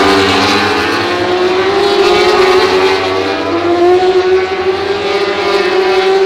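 Superbike race motorcycles' engines at high revs on track, a steady note that slides in pitch and steps up about three and a half seconds in as the bikes accelerate.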